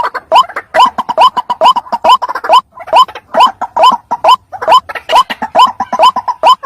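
White-breasted waterhen (ruak-ruak) calling over and over: short, loud notes that each sweep quickly upward, about two to three a second, played back as a lure call.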